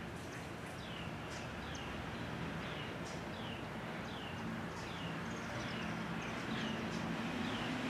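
A bird calling over and over: a short falling chirp repeated about once a second, over a faint steady low hum.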